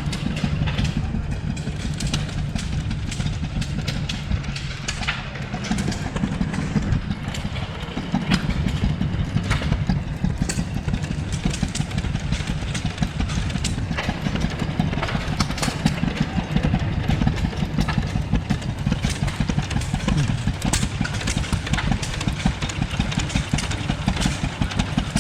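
Antique hit-and-miss stationary engines running, a rapid low chugging with scattered sharp clicks and knocks.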